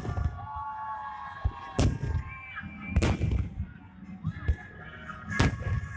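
Festive fireworks salute: loud bangs of shells bursting overhead, four big ones a second or two apart with smaller pops between. Music plays underneath.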